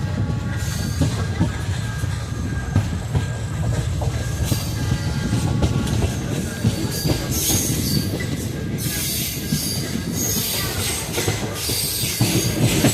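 Railway carriage wheels rumbling along the track, with high metallic wheel squeal coming and going, strongest in the middle of the stretch.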